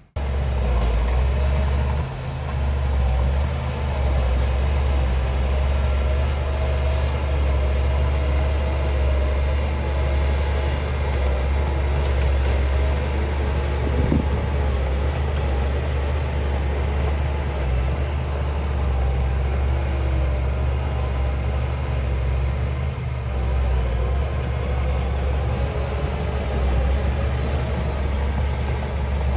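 Heavy diesel engine of earthmoving machinery running steadily at an even, unchanging speed.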